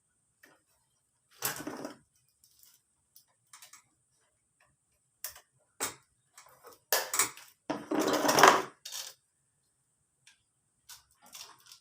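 Hand tools and metal engine parts clinking and knocking during the strip-down of a Honda Vario 150 scooter engine: a string of short clicks and clanks, with a louder run of clattering about seven to nine seconds in.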